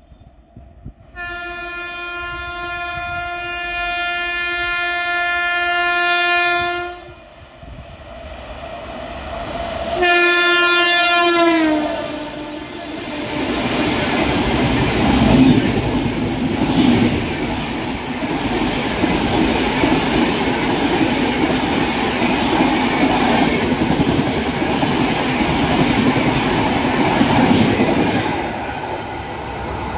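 An Indian Railways express locomotive's horn sounds one long, steady blast lasting about six seconds. A few seconds later a second, shorter blast follows, and its pitch drops at the end as the locomotive passes close. The train then rushes past at speed, its wheels clattering on the rails, and the noise eases off near the end.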